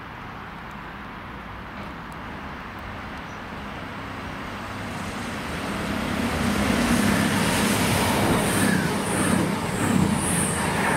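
CrossCountry Voyager diesel multiple unit approaching and passing through the station at speed. It grows louder until about six or seven seconds in, then the rush of the train going by holds, with a pulse repeating about every two-thirds of a second as the carriages pass.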